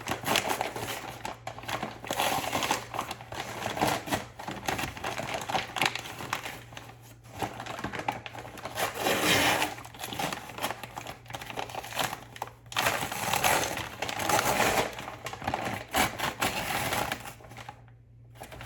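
Paper flour bag crinkling and rustling in irregular bursts as it is handled and worked open, with small clicks and crackles.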